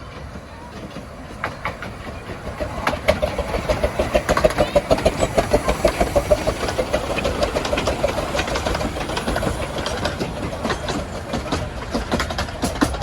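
A 15-inch-gauge miniature train running past at speed, its rapid rhythmic beats rising to a peak a few seconds in and then slowly fading as it goes by.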